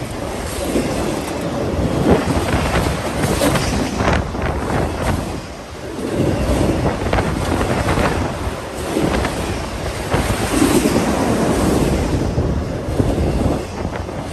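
Freight train cars rolling past, with irregular clicks from the wheels over the rail and wind buffeting the microphone.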